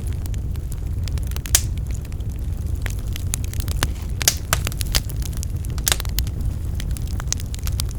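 Wood fire burning in a fireplace: a steady low rumble of flame with irregular sharp crackles and pops from the burning logs, a few louder pops about four and six seconds in.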